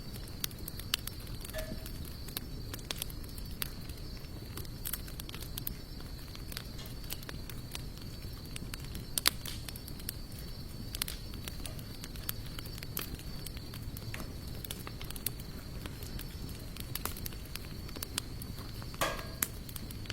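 Wood fire of sawtooth oak and mixed hardwood logs crackling, with irregular sharp pops over a low steady rush of flame. A steady high-pitched tone runs in the background, and a short pitched sound comes near the end.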